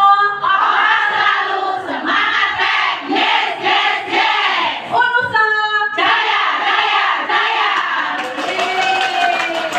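A large group of women chanting a rhythmic cheer in unison, with a long held note a little after halfway.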